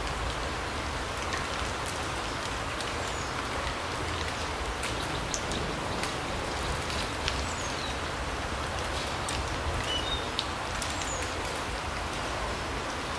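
Forest ambience: a steady hiss with scattered light ticks, like rain dripping through the trees. A few short, high, falling bird chirps come through it.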